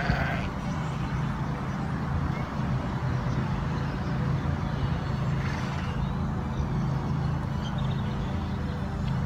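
A farm animal's bleat, ending just after the start, over a steady low hum.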